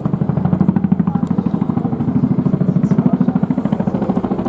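RAF Boeing Chinook HC.2/4 helicopter in flight: the rapid, even beat of its tandem rotors, getting a little louder in the first second.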